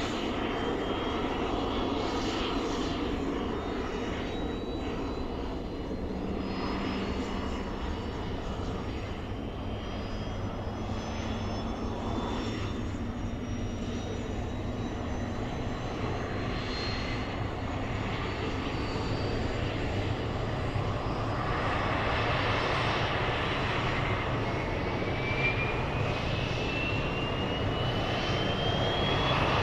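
Helicopter turbine engine running steadily, with thin whines slowly rising in pitch; over the last several seconds it grows louder and a whine climbs more steeply.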